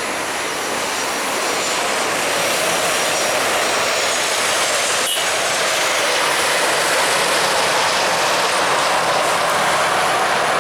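Jet airliner engines making a loud, steady roar as the plane passes, with a tone in the roar that slowly rises toward the end.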